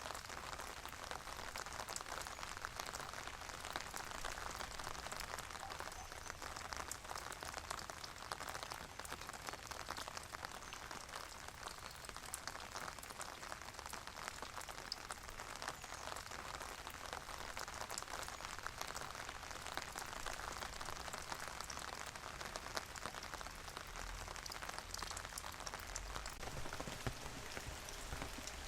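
Steady, calm rain falling, a constant hiss made up of many small drop ticks.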